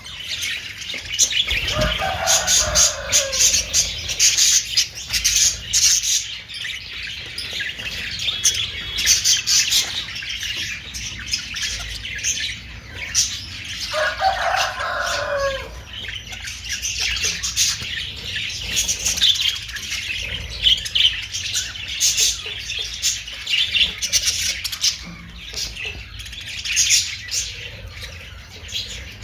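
Flock of budgerigars chattering and chirping continuously, with many quick overlapping high calls. Twice, at about two seconds in and again near the middle, a lower drawn-out call with falling pitch rises above the chatter for a second or two.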